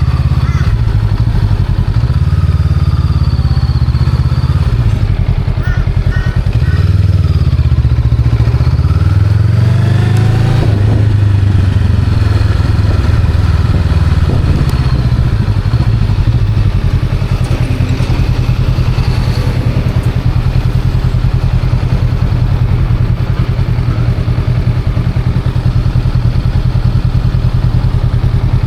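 Honda Rebel 500's parallel-twin engine under way. The revs dip and climb again in the first ten seconds or so, then it runs at a steady pitch.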